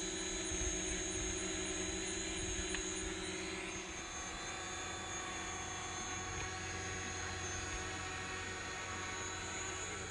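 DJI Mavic Pro quadcopter drone in flight, its propellers making a steady multi-tone whine and buzz. The pitch mix changes about four seconds in as the drone alters its speed.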